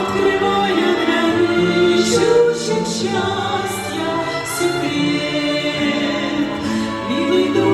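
Choir singing a Christian song, with long held notes.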